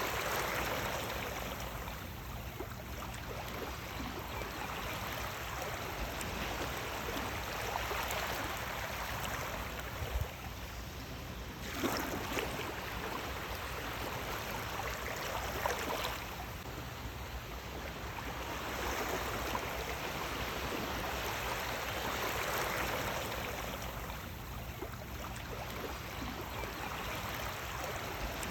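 Sea waves washing in: a steady rush of water that swells and eases every few seconds, with sharper splashes about twelve and sixteen seconds in.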